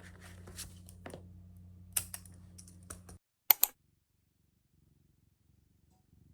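Typing on a keyboard: scattered key clicks over a steady low hum. A little past three seconds in, the sound cuts off abruptly; two loud, sharp clicks follow, then near silence.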